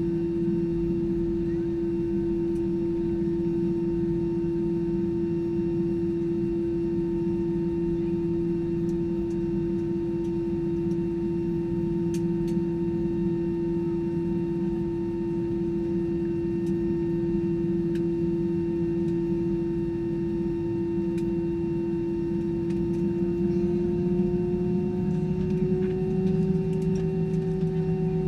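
Steady drone inside the cabin of an Airbus A320-214 with CFM56-5B engines: a low hum under a strong steady tone, which rises slightly in pitch near the end.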